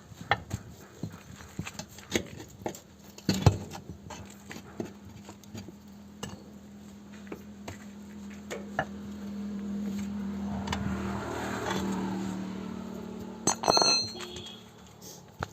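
Scattered knocks and taps of hand tools at work on a tractor tyre and wheel, with one heavy knock about three seconds in and a sharp, ringing metal clank near the end. A low steady hum swells and fades in the middle.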